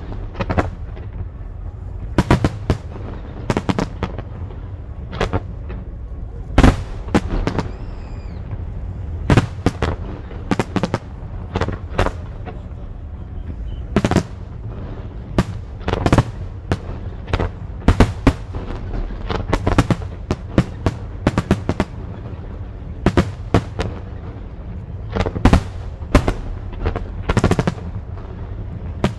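Aerial fireworks bursting in a rapid barrage of sharp bangs and booms, several a second at times, over a steady low rumble.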